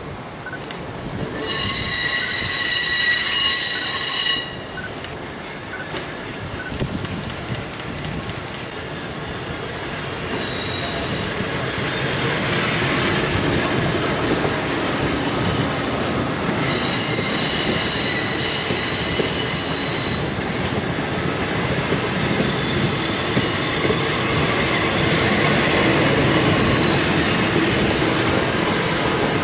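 Hitachi electric multiple unit train approaching and running past along the platform, its running noise building from about ten seconds in and staying steady. A loud high-pitched tone sounds for about three seconds near the start, and a fainter high squeal lasts about three seconds around the middle.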